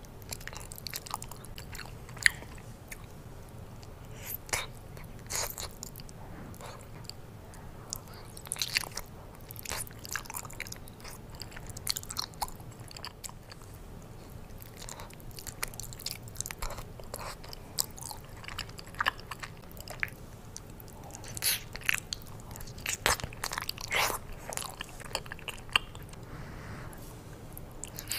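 Close-miked chewing and biting of a person eating baked lasagna: irregular short wet clicks and smacks of the mouth working through soft pasta and melted cheese.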